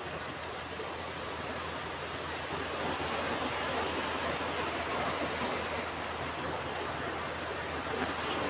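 Ocean surf washing onto a beach, a steady rush of waves that swells slightly about three seconds in.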